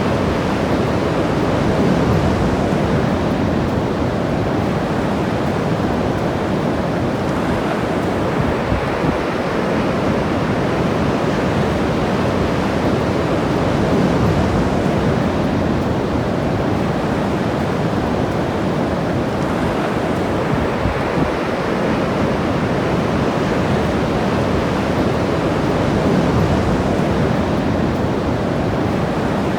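Ocean waves breaking and washing up the shore, a steady roar of surf that swells and eases every few seconds, with some wind buffeting the microphone.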